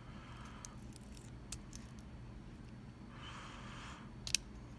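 Small metal clicks and a soft scrape from handling a Mul-T-Lock MT5 lock cylinder and a thin shim, with one sharper click a little after four seconds.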